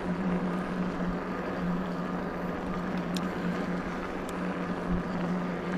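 Electric bike's motor humming at a steady pitch while riding along, over a haze of tyre and wind noise.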